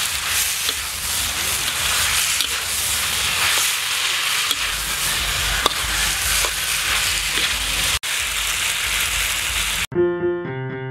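Sliced beef heart stir-frying in a wok, sizzling steadily, with a metal spatula scraping and clicking against the pan. About a second before the end it cuts abruptly to piano music.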